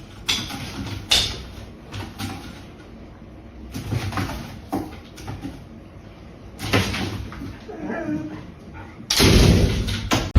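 A series of sharp knocks and bumps with a dog's noises mixed in, and a loud, noisy burst in the last second.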